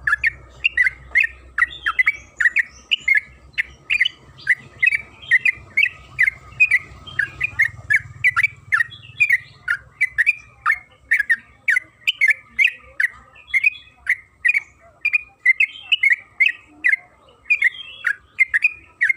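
Yellow-vented bulbul (trucukan) singing a long, unbroken run of short, sharp chirping notes, two or three a second, in the fast rolling style keepers call ropel.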